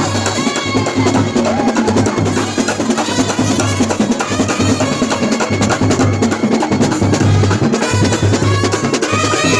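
Percussion ensemble drumming a fast, dense rhythm, with a melody line heard faintly above it.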